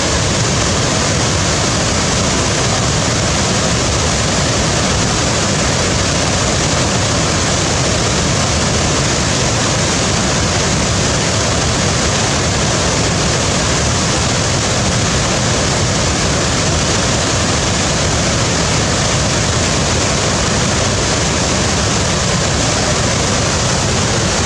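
Waterfall: a loud, unbroken rush of falling water that stays steady throughout.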